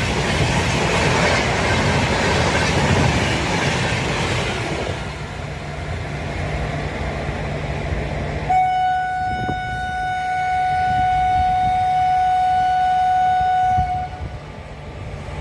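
Gatimaan Express with its WAP-5 electric locomotive running at high speed, a loud rushing rail noise that eases after about five seconds. About eight seconds in, the train horn sounds one steady note for about five seconds.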